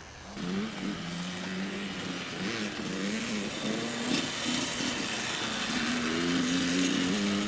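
Dirt bike engine on a motocross track, revving up and easing off again and again as the throttle is worked.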